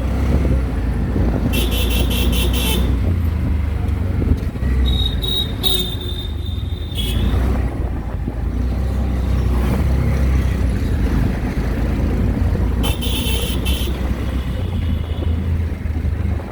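Riding in an auto-rickshaw through street traffic: a steady engine and road rumble, with vehicle horns honking three times, as a quick string of beeps about two seconds in, a longer blast around six seconds, and more rapid beeps around thirteen seconds.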